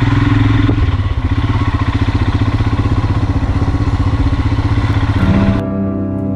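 Royal Enfield Himalayan's single-cylinder engine running with a rapid, even thump. It cuts off suddenly a little past five seconds as acoustic guitar music comes in.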